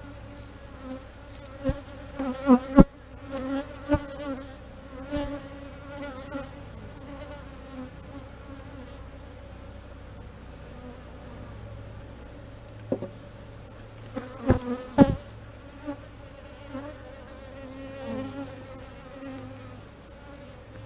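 Honey bees buzzing steadily around an open hive, with a few sharp knocks of wooden hive parts being set back in place, clustered near the start and again about two-thirds of the way through.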